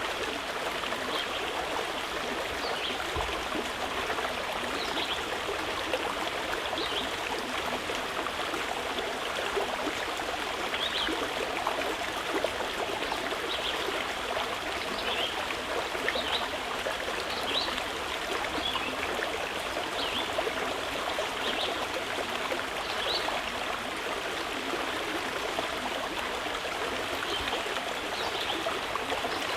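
A stream of water flowing steadily, a continuous rush and trickle, with brief high notes dotted through it every second or two.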